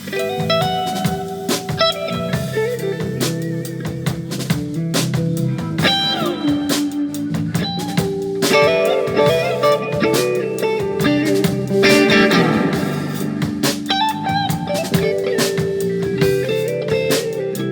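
Live jazz fusion band playing, with electric guitar notes and chords over bass and drum kit, including one sliding note that falls in pitch about six seconds in.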